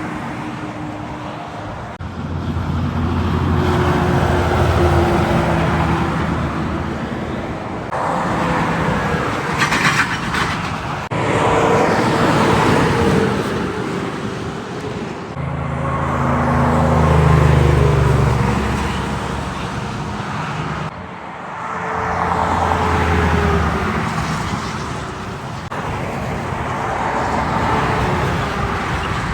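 Heavy trucks passing one after another on a highway, engine drone and tyre noise swelling and fading with each pass-by, the loudest about two-thirds of the way through.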